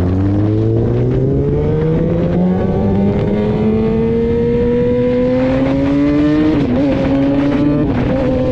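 Sportbike engine pulling through a gear, its pitch rising steadily for about six seconds, then wavering briefly and holding steady near the end.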